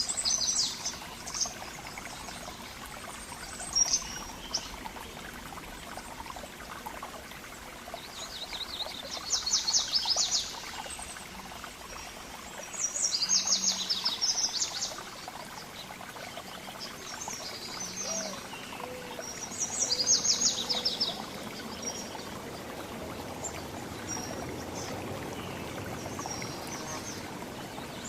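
Songbirds singing: several fast, high trilled phrases of rapid repeated notes, each a second or two long, with shorter chirps between them, over a steady rushing background noise.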